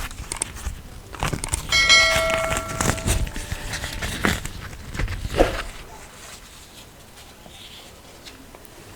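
A metal utensil or dish is struck and rings for about a second and a half, about two seconds in, among scattered knocks and rustles of food being handled.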